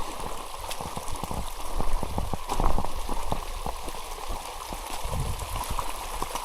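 Heavy rain pelting down, with a dense patter of drops striking close by, over water running along the ground.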